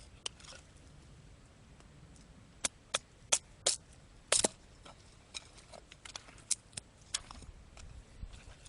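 Sharp wooden knocks and cracks as firewood is batoned into thin kindling, a knife driven through the wood with a baton. Five loud strikes come about a third of the way in, followed by several lighter taps.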